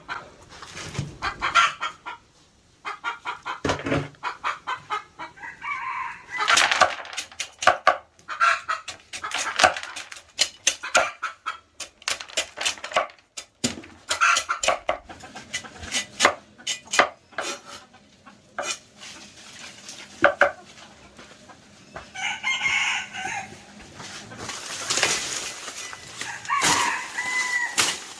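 Chickens clucking and a rooster crowing, among many sharp clicks and knocks from handwork.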